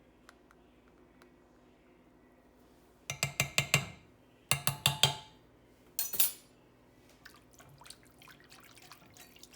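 A teaspoon clinking against a glass jar in quick runs of taps, about six and then five in rapid succession, then a single clink, as ginger is scooped out and knocked off the spoon. Faint small clicks follow near the end.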